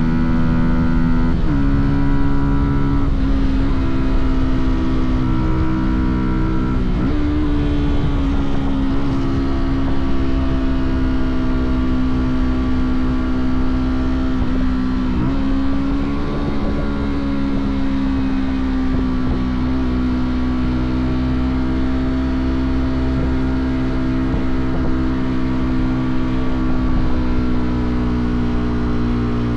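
Fantic Caballero 125's single-cylinder four-stroke engine and exhaust under way. The engine note steps in pitch a few times in the first seven seconds, dips briefly around the middle, then holds a steady cruising note.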